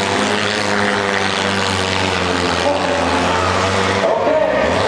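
Several compact-car engines running and revving together, a dense, steady engine din whose pitches keep rising and falling, with a shift in the engine notes about four seconds in.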